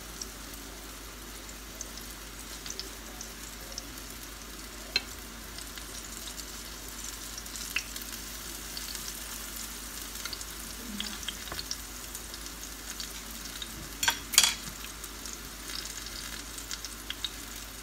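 Battered banana fritters sizzling and crackling in hot oil in a frying pan, a steady hiss dotted with small pops. A few sharp clicks stand out, the loudest about fourteen seconds in.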